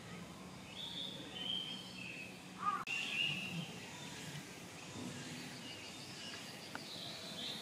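Quiet outdoor background noise with short, high chirps of small birds scattered through it, and a single sharp click a little under three seconds in.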